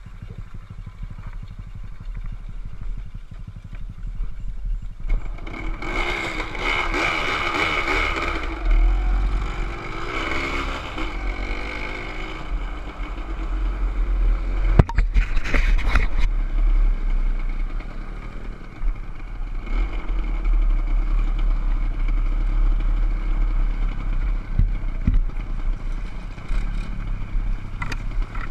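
Motorcycle engine running and revving, its pitch rising and falling, with a couple of sharp knocks about halfway through.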